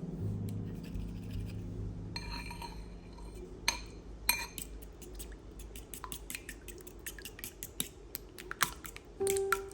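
Dishes and cutlery clinking and tapping in a run of short, light knocks, the two loudest about three and a half and four seconds in. Soft background music fades out during the first two seconds.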